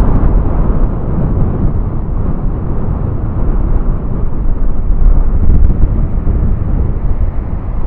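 Strong tropical-storm wind gusting across a handheld phone's microphone, a loud, unsteady rumbling noise that rises and falls with the gusts.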